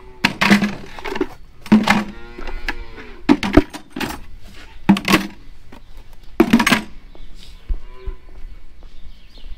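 Several dairy calves bawling in turn, about five loud calls spread over the first seven seconds with quieter calls between and near the end: calves waiting to be fed milk and water.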